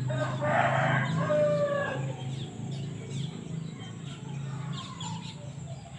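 A rooster crowing once, for about two seconds right at the start, over a steady low hum and scattered short bird chirps.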